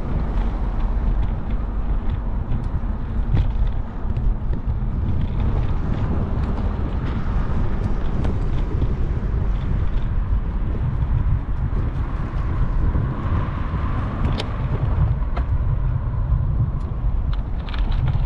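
Wind rushing over the microphone while cycling along a road, with road traffic; scattered light clicks run through it.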